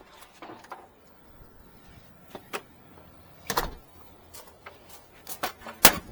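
Scattered clicks and knocks of hard objects being handled, with two sharper knocks about three and a half and six seconds in.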